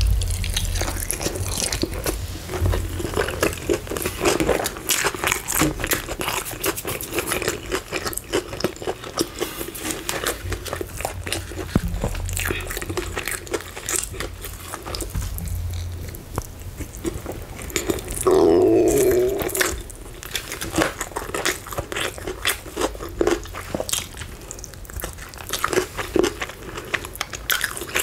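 Close-miked eating sounds: biting into and chewing KFC fried chicken, with many small crunches and crackles of the crispy coating and wet mouth sounds. About two-thirds of the way in comes a louder low hum lasting about a second.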